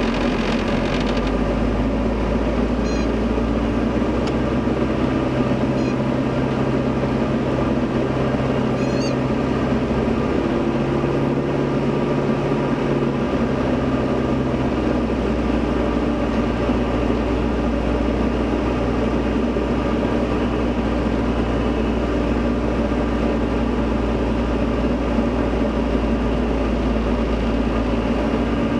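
Diamond DA40 single-engine piston plane's engine and propeller droning steadily as heard inside the cockpit during the landing approach. The engine note shifts a little partway through.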